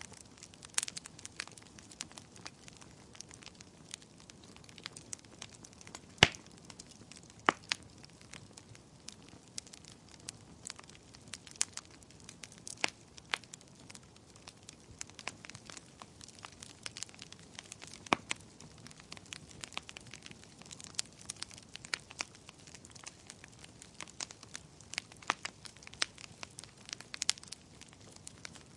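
Bonfire crackling: irregular sharp pops and snaps over a soft, steady hiss, with the loudest pops about six and eighteen seconds in.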